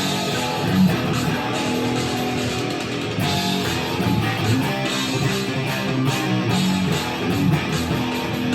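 Gibson SG Standard electric guitar with '57 Classic humbucker pickups, played continuously through an amplifier, with notes and chords changing quickly.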